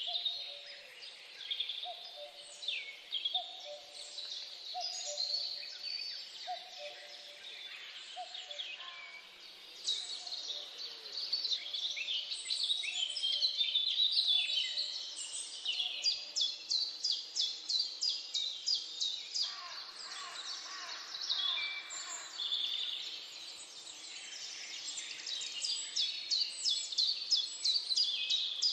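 Many birds chirping and calling at once in a dense chorus of high calls. Through the first several seconds a low two-note call repeats about once a second. A rapid run of chirps, about four a second, comes in the middle and again near the end.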